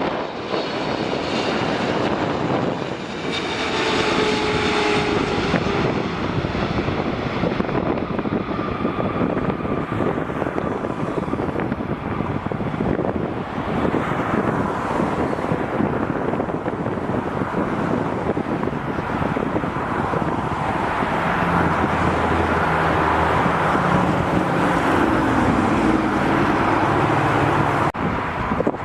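Jet airliner engines passing: a steady loud rush with a faint engine whine a few seconds in, growing slightly louder and lower in the last several seconds.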